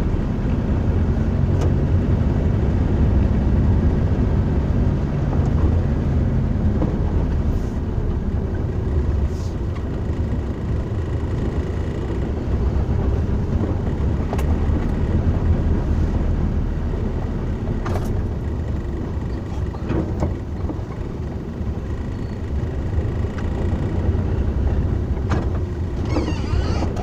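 Steady low rumble of a car moving, heard from inside the cabin, with a few scattered sharp ticks.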